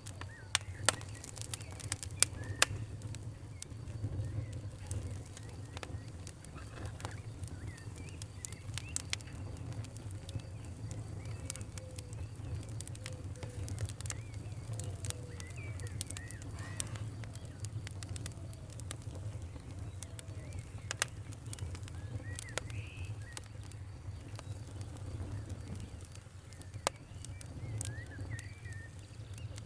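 Fire crackling, with sharp irregular pops and snaps over a steady low rumble. Birds call faintly now and then in the background.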